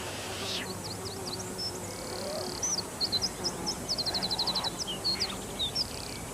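A small songbird singing a rapid, varied song of high chirps and whistles, with a fast trill of about ten notes in the middle.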